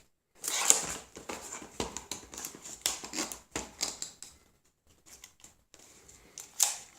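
A small cardboard product box handled and turned in the hands: irregular taps, clicks and scrapes of cardboard, with a sharper knock about a second in and another near the end.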